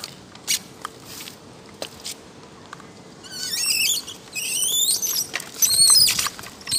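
Small birds chirping in fast, high-pitched twittering runs that start about halfway in, after a few sharp clicks.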